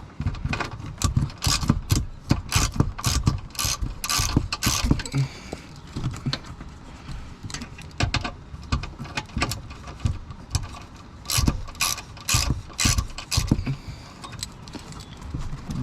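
Hand ratchet clicking in quick runs of sharp ticks as it backs out the T30 Torx screws holding the car's underbody panels, with short pauses between runs.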